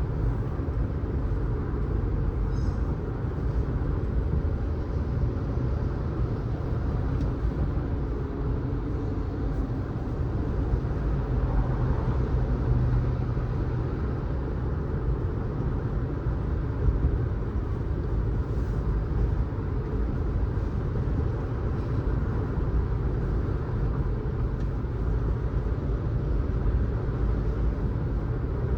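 A car driving along a road: steady low road and engine rumble with tyre noise.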